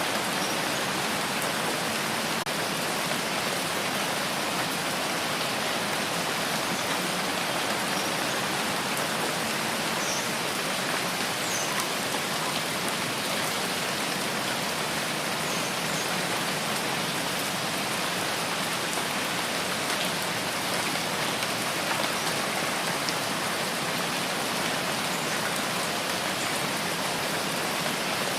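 Steady rain falling, an even hiss that does not change, with a few faint drip ticks.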